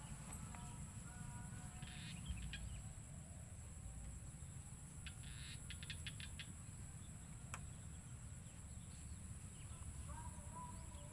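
Faint bird chirping over a low, steady background rumble, with one sharp click a little past the middle.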